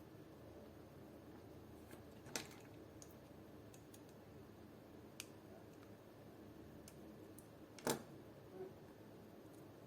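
A few faint, scattered clicks and taps as a C-clip is worked off the barrel assembly of an airsoft AK, the loudest near the end, over a quiet room hum.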